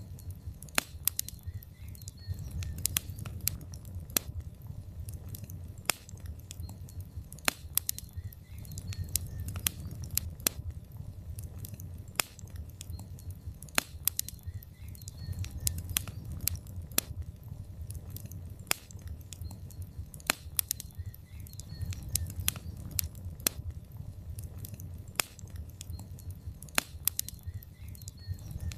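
Wood fire of burning logs in a fireplace, crackling and popping with frequent sharp irregular snaps over a steady low rumble of the flames.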